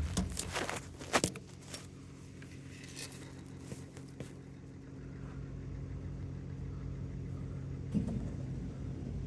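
A few sharp clicks and knocks of parts or tools being handled during a washing machine teardown, most of them in the first second and a half, then only a steady low hum.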